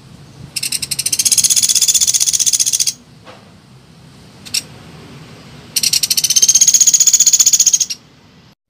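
Calls of the pelatuk beras, a small woodpecker: two fast, high rattling trills, each about two seconds long, with a single short note between them.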